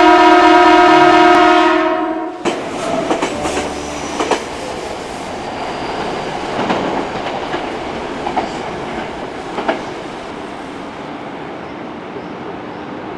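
Electric commuter train, plausibly a Tokyo Metro 6000 series, sounds its horn in one long steady blast for about two seconds, then runs past on the rails with wheel clicks over rail joints, the noise easing toward the end.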